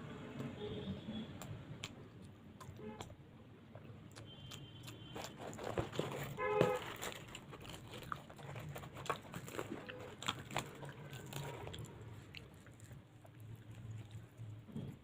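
A person chewing and biting luchi with potato curry: irregular mouth clicks and smacks, with a short pitched sound about six and a half seconds in, the loudest moment.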